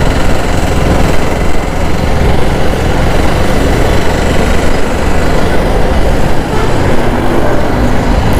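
Motorcycle engine running while riding, with steady road and wind rush on the microphone.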